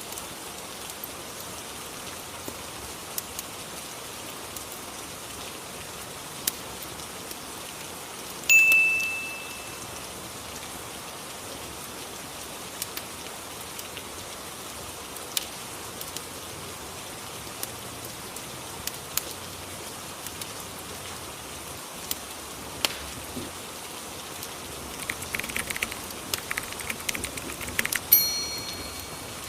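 Steady rain ambience with scattered sharp fireplace crackles that thicken near the end. Two short bell-like chimes ring and fade, one about eight seconds in and one near the end.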